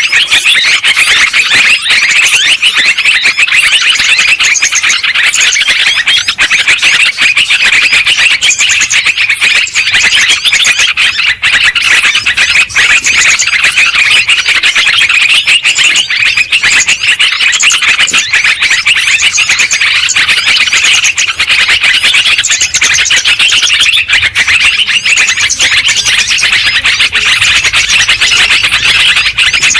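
Yellow-vented bulbuls (terucukan) chattering noisily, many overlapping calls in a loud, unbroken stream.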